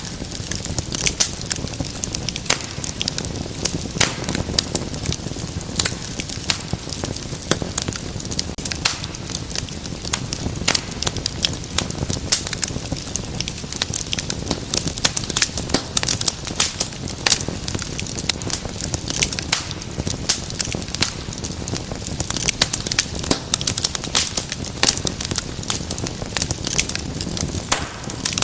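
Wood fire burning with dense, irregular crackles and pops over a steady low rumble of flame.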